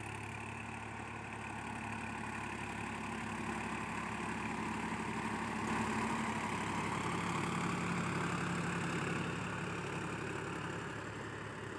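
Swaraj 960 tractor's diesel engine running steadily, growing louder for a few seconds in the middle before easing back.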